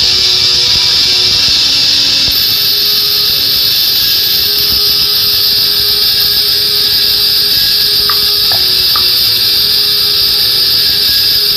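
Chorus of night insects chirring steadily, a continuous shrill high sound, with a second, even higher-pitched insect joining in about two seconds in.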